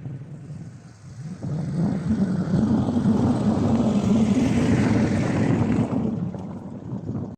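A motor vehicle driving by, its engine rumble and road noise swelling about a second and a half in and fading away near the end.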